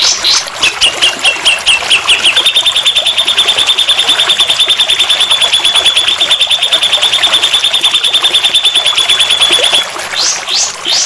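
Recorded songbird tutor song: a long, rapid, buzzy trill of evenly spaced notes held for about nine seconds, led in by a short run of lower notes. Quick repeated sweeping whistles come just before and after it.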